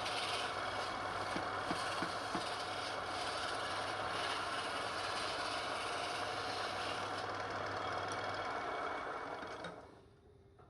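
Wood lathe motor running steadily with a low hum, then switched off and fading away near the end.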